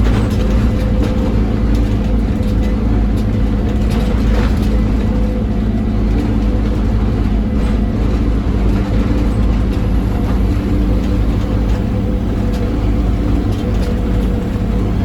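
Scania OmniCity bus's diesel engine running hard at a steady pitch, with a deep rumble, road noise and a few light rattles.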